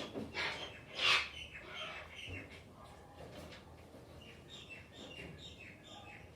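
Wild birds calling: a loud, harsh call about a second in, followed by a run of short, high chirps.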